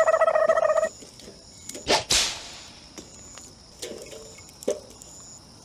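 Night insects chirping with thin, high, steady tones. A loud pulsed buzzing call in the first second, a brief rushing sound about two seconds in, and scattered clicks.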